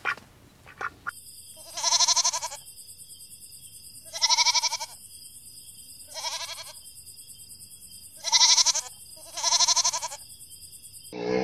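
Bleating livestock, five wavering bleats a couple of seconds apart, over a steady high hiss.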